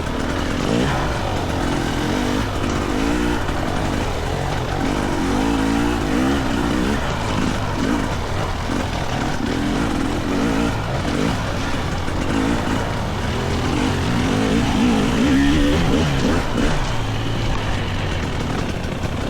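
GasGas EC300 single-cylinder two-stroke dirt bike engine being ridden on trail, its revs rising and falling over and over as the throttle is worked.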